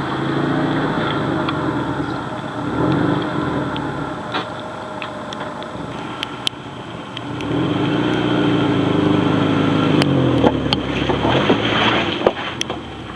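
1999 Subaru Forester's flat-four engine revving in repeated surges, rising and falling as it works up a rock climb off-road. Sharp knocks and clicks come in a cluster near the end.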